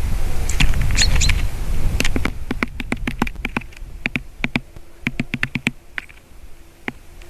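Rapid, irregular tapping of a bird pecking at wood close to the microphone, a run of quick knocks lasting about four seconds. Wind rumbles on the microphone at first, and a few brief high chirps sound about a second in.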